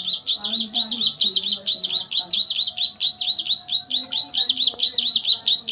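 Songbird singing in the rapid 'tembak' (shooting) style: one high, sharp note repeated about nine times a second without a break, the continuous 'full bren' song used as masteran for training cage birds.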